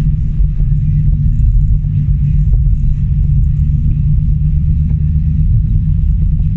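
Car being driven: a steady, loud low rumble of engine and tyres on the road, with faint scattered ticks over it.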